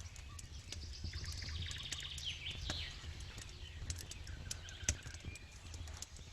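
Campfire crackling with frequent small pops and one sharper pop about five seconds in, while birds chirp and call over a low steady rumble.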